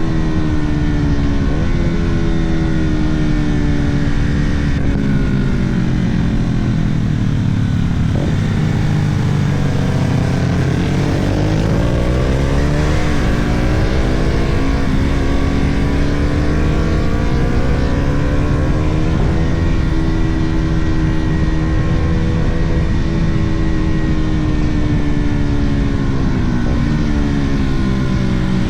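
Sport motorcycle engine running under way, with heavy wind and road rumble. The engine note slowly falls for the first several seconds, then climbs steeply as the bike accelerates, holds high, and dips and climbs again near the end.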